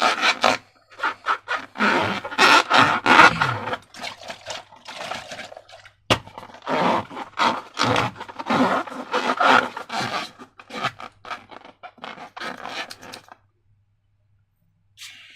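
Slime being worked by hand: irregular scraping and rubbing strokes, with a single sharp click about six seconds in.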